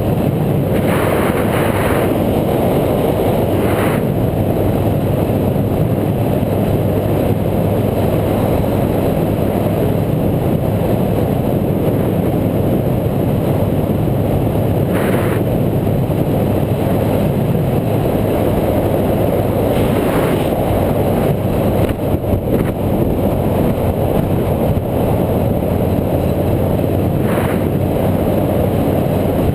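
Steady, loud rush of wind and riding noise on a bike-mounted action camera, with a few brief louder gusts.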